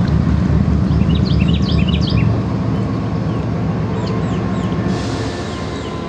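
Songbirds chirping, with a quick flurry of chirps about a second in and scattered short calls after, over a loud low rumble.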